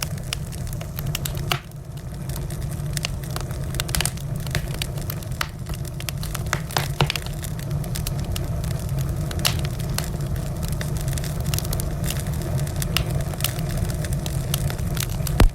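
Wood fire crackling: frequent sharp pops and snaps over a steady low rumble, with one louder pop near the end.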